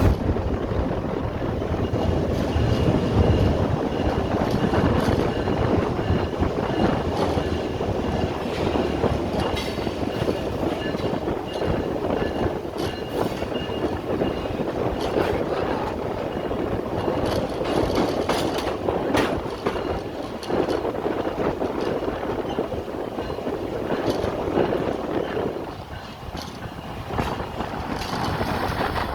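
Passenger train coaches rolling past, wheels clattering over the rail joints with a faint thin squeal from the wheels. The sound is steady, dropping briefly near the end.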